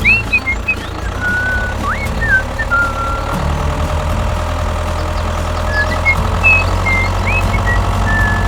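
A vehicle engine running steadily at a low pitch. Over it come short, high whistling notes that slide up and then hold, a cluster in the first few seconds and another near the end.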